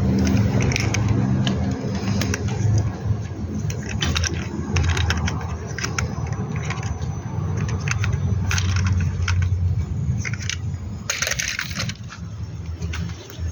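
Plastic toy vehicles clicking and clattering as they are handled and rummaged, with a rougher rattle a little after eleven seconds, over a steady low hum.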